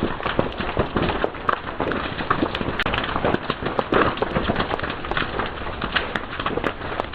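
Fire crackling and popping: a dense, irregular run of small crackles with sharper, louder pops scattered among them.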